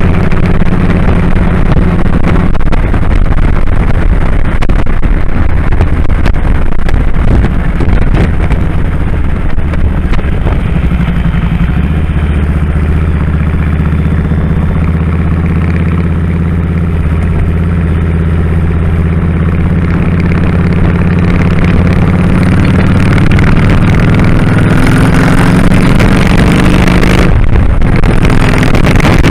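2001 Kawasaki Drifter 1500's V-twin engine running under way. The engine note drops to a lower, steadier pitch about twelve seconds in and breaks off briefly near the end.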